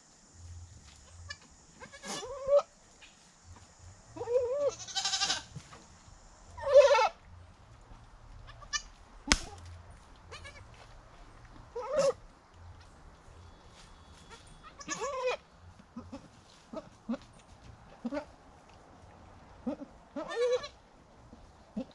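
Goats bleating, about six separate calls spread a few seconds apart, one longer drawn-out bleat among them, with a sharp click midway.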